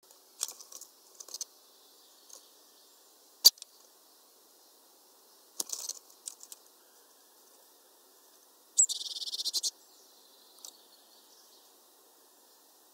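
Birds at a feeder, a great tit and a great spotted woodpecker: scattered short, sharp high calls and clicks, one very sharp and loud about a third of the way in, then a buzzy high rattle lasting just under a second about two-thirds of the way through.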